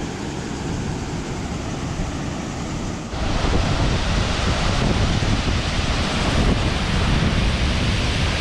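Waterfall water rushing steadily, louder from about three seconds in.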